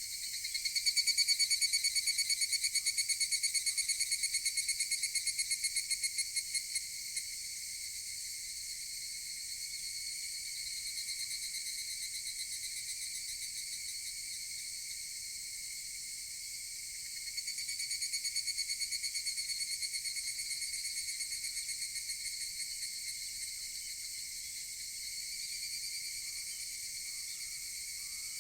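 Higurashi (evening cicadas) calling over a steady high chorus. A near one gives a rapid pulsed trill for about six seconds at the start that slows and fades at the end, another starts about seventeen seconds in, and fainter ones call farther off in between.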